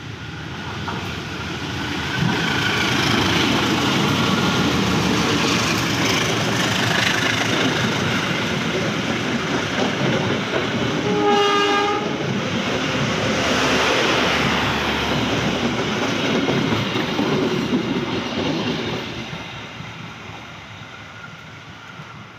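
A train passing by; its noise builds up, holds for many seconds and then fades away. About halfway through, the locomotive sounds one short horn blast.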